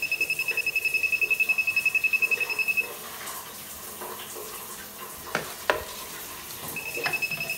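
Tramex ME5 moisture meter's audible alarm beeping rapidly, about eight high beeps a second, signalling a wet reading at a leaking toilet wax-ring drain. The beeping stops about three seconds in, two sharp clicks follow, and it starts again near the end.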